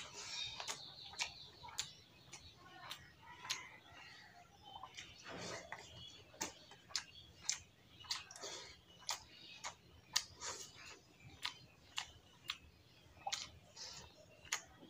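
Close-up eating sounds of rice, dal and fried potato eaten by hand: sharp, wet mouth clicks and smacks while chewing, roughly twice a second.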